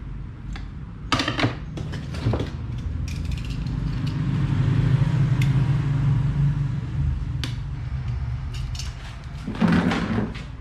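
Fan parts being handled during repair: sharp knocks and clatter of parts set down and moved, a few times, with a louder cluster near the end, over a low steady hum that swells in the middle.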